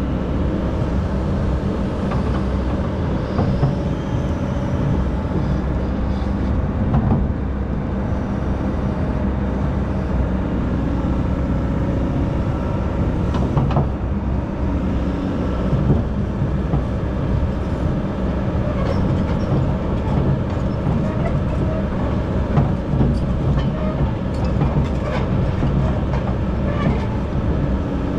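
Excavator's diesel engine running steadily, with a few light knocks scattered through it.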